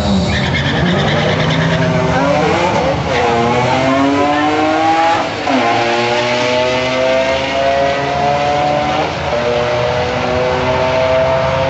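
Hyundai Tiburon at full throttle down a drag strip, engine pitch climbing through the gears, with upshifts about 3, 5½ and 9 seconds in.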